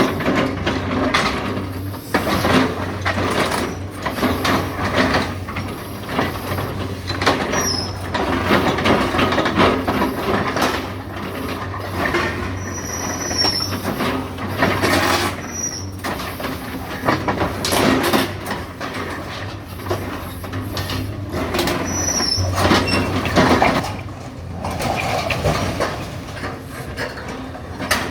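Demolition excavators at work: a diesel engine runs steadily under many irregular cracks and crunches of breaking debris, with a few short, high squeals of scraping metal.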